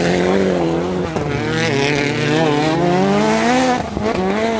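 Autocross racing car's engine running hard under load, its pitch wavering up and down with the throttle and climbing through the middle; about four seconds in it drops briefly, as on a lift or gear change, then picks up again.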